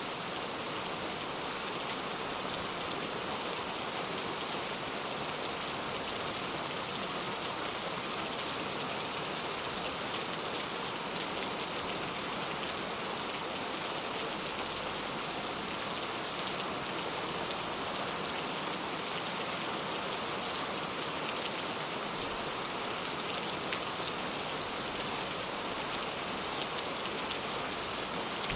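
Steady rain falling: a dense, even hiss sprinkled with the fine patter of individual drops.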